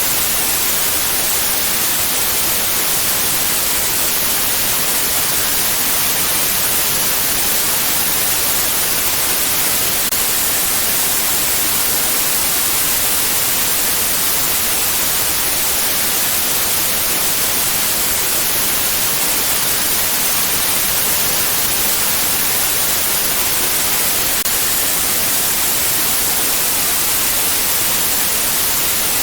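Steady white noise: a constant, even hiss that is strongest in the treble and does not change.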